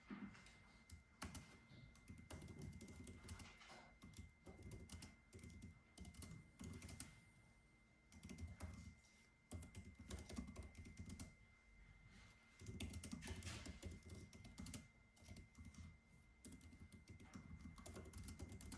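Soft typing on a computer keyboard: quick runs of key clicks in bursts, broken by short pauses. A faint steady high-pitched tone runs underneath.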